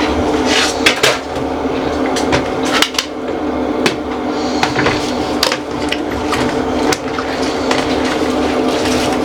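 Household items clattering and knocking as containers and dishes are handled, in quick irregular clicks and knocks over a steady hum.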